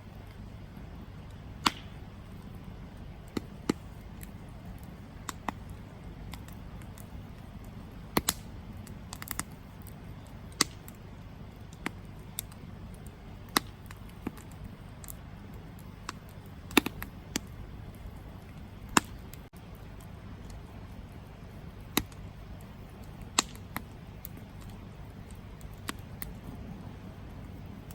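Campfire crackling: sharp, irregular pops roughly every second, some much louder than others, over a steady low rumble.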